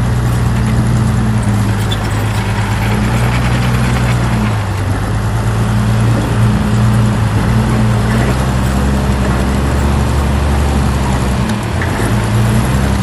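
Heavy diesel earthmoving machinery running steadily, with a deep engine hum and a noisy clatter above it. The engine note shifts about four and a half seconds in and again near the end.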